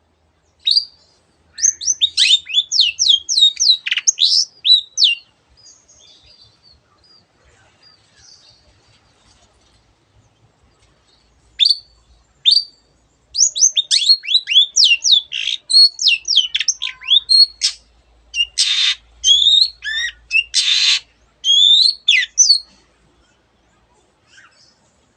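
Long-tailed shrike (cendet) singing: rapid runs of sharp, falling whistled notes in two bouts with a pause between. The second bout is broken by two short harsh rasping calls.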